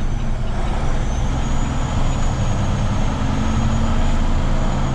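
Heavy tow truck's diesel engine running steadily while driving along, with a faint high whine over the engine.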